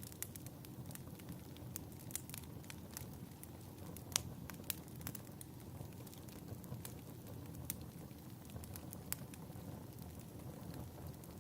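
Fireplace crackling: a steady low rush of burning wood with scattered sharp pops and snaps. The loudest pop comes a little after four seconds in.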